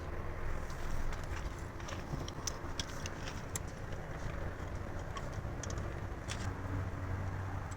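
Workshop noise: a steady low hum under scattered light clicks and taps.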